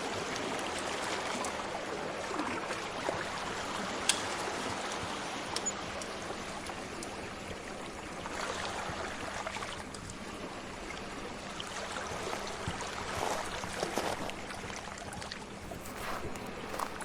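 Steady wash of sea waves, with a few sharp pops of a crackling wood fire: one about four seconds in, and several more near the end.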